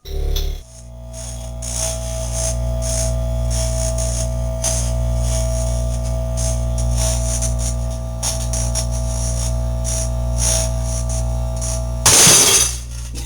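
Microwave oven running with a match-lit plasma inside, giving a loud steady electrical hum with irregular crackling. About twelve seconds in there is a loud, brief burst of noise, the glass jar shattering, and the hum stops.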